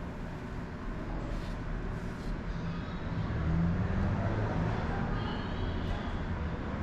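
A vehicle engine running with a low, steady hum that grows louder about three seconds in.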